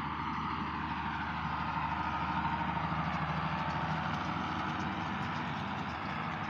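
Farm tractor's diesel engine running steadily, growing louder about two seconds in and easing off again toward the end.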